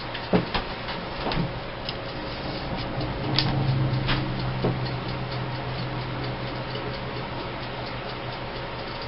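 Mechanical timer ticking steadily, with a few louder clicks in the first half and a low hum that swells briefly a few seconds in.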